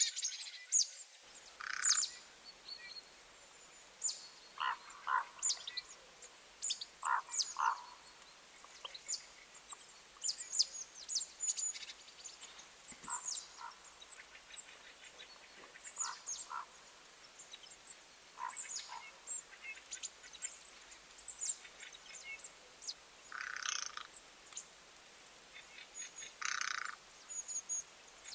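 Birds calling: scattered short, quick chirps throughout, with two longer, harsher calls a few seconds before the end.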